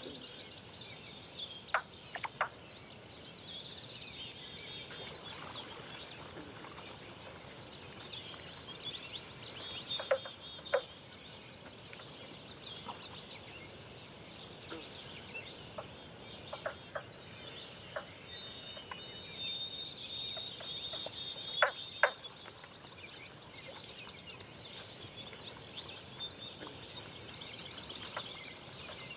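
Dawn chorus of several songbirds in a forest, with overlapping high trills and repeated notes. A few short sharp clicks stand out above the birdsong, some in quick pairs.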